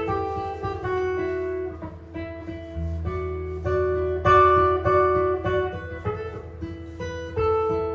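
Jazz guitar improvising solo: plucked single notes and chords that ring on, over a low held note.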